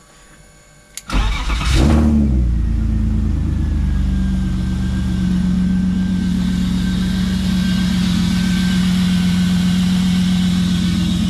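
BMW E36's replacement straight-six cranking and catching about a second in on its first start after the engine swap, flaring up briefly, then settling into a steady idle.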